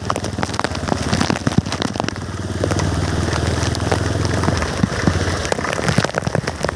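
Heavy rain falling, with drops hitting close to the microphone in many sharp taps. A low rumble swells up about two and a half seconds in and fades out after about four and a half seconds.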